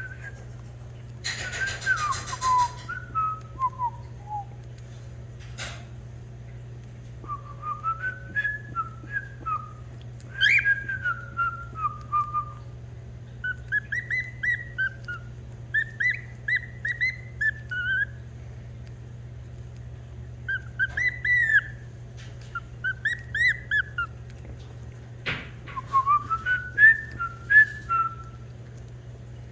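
Cockatiel singing a whistled song: phrases of clear, gliding whistle notes that rise and fall, repeated with short pauses between them.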